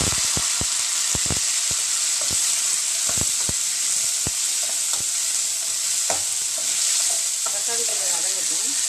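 Tomatoes, shallots and garlic sizzling steadily in hot oil in a metal kadai, while a metal spatula stirring them scrapes and knocks against the pan in irregular clicks.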